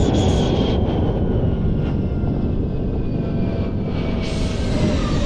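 A larger airplane's engines running loud close by: a steady, heavy rumble with a faint high whine that slowly falls in pitch.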